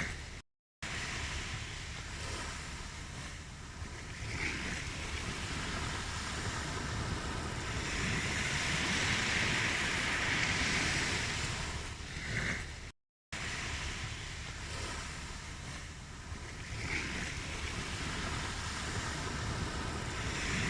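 Ocean surf: waves breaking and washing in, swelling and ebbing every several seconds. The sound cuts out completely twice, for a split second each time, near the start and about two-thirds of the way through.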